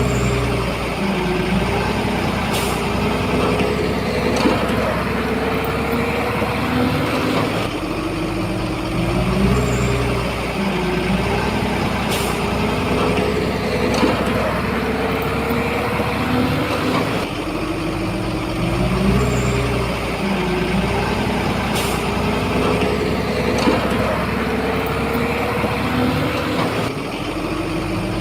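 Shantui bulldozer's diesel engine working under load, its pitch rising and falling in a repeating cycle about every ten seconds, with a sharp click near the start of each cycle.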